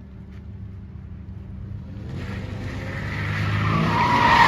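Car engine running, then revving up about two seconds in as tyre squeal builds and grows louder toward the end.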